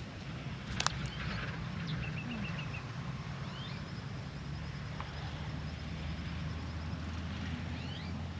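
Birds calling in short, high chirps, with a quick run of five or six notes about two seconds in and rising chirps near the end, over a steady low hum. A sharp click about a second in is the loudest sound.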